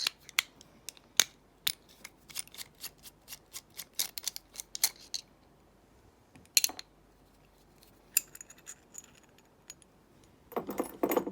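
Metal clicks and taps from handling a brass Lockwood padlock and small tools while taking it apart, with a short high metallic ring about eight seconds in and a louder scraping rattle near the end.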